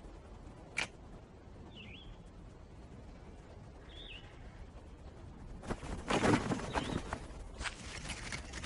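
Outdoor ambience with a bird giving a short rising-and-falling chirp every two seconds or so. There is one sharp click about a second in. Louder rustling and shuffling follow in the second half, with a click near the end.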